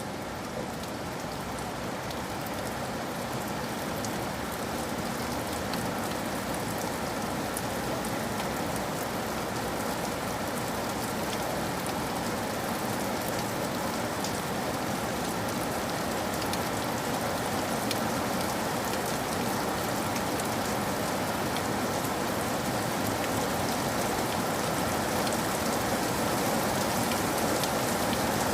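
Steady rain falling, with scattered sharp drop taps through the hiss, slowly growing louder.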